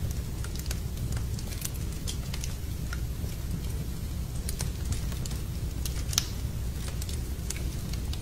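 Wood fire crackling in a fireplace: irregular sharp pops and snaps, one louder snap about six seconds in, over a steady low rumble.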